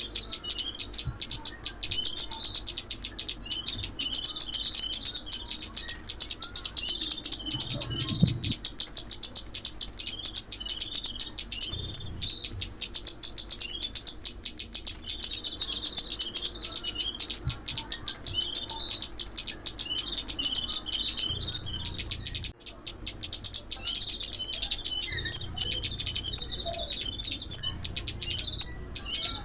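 Sunbird song: rapid, high, thin chirps and trills repeated over and over without pause, with a thin held note running underneath. This is a lure recording played to call the birds in for trapping.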